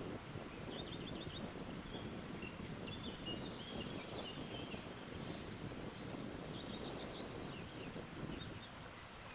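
Wind blowing through tree branches as a steady low rush, with small birds chirping in short, high trills several times through it.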